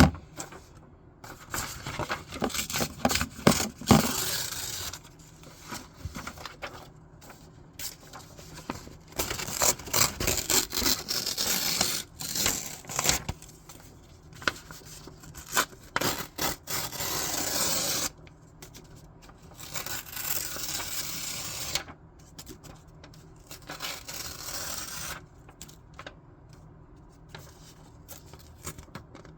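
Scissors cutting through sketchbook paper and the paper being handled and rustled, in irregular bursts with a few longer continuous stretches in the middle.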